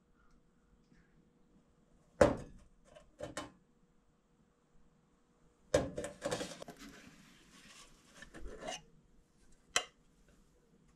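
Knocks and clatter of hard objects being handled and set down in a small room. There is a sharp knock about two seconds in and two lighter ones soon after, then a run of clattering and scraping in the middle, and a final sharp click near the end.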